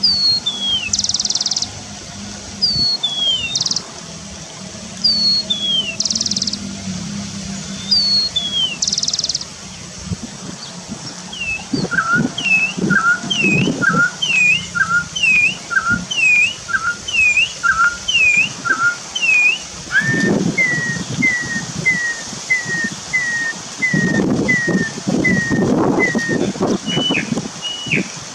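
Songbird whistling repeated phrases: first falling two-part whistles between short high buzzy bursts, then evenly spaced dipping notes about one a second, then a quicker run of short clipped notes.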